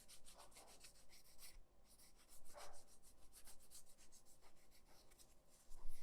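Faint, rapid rubbing and scraping with fine ticks, a slightly louder scrape about halfway through and another near the end.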